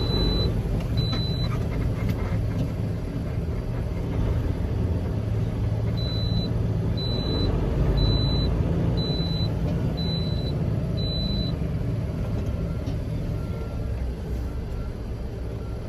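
Semi truck's diesel engine running at low speed, with a high reversing beeper sounding about once a second: twice at the start, then a run of six beeps after a pause of a few seconds.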